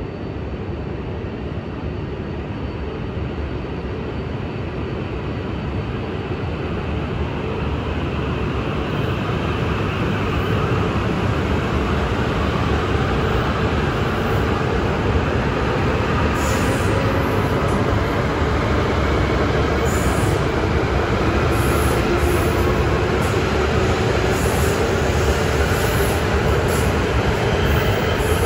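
Ten-car E5 series Shinkansen pulling away from the platform and accelerating. The running noise grows steadily louder, with a motor whine rising in pitch in the second half.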